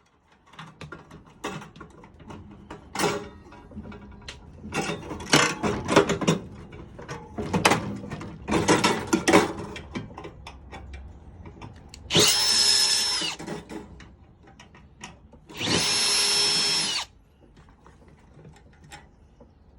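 A power drill/driver spins in two steady whines of about a second each, backing screws out of a microwave's sheet-metal casing. Before them, metal parts clatter and knock for several seconds.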